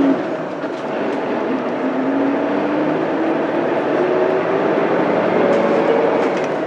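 Mitsubishi Fuso Aerostar bus's 6M70 straight-six diesel accelerating away from a stop. The engine note drops at a gear change right at the start, then rises steadily as the bus pulls up through the gear.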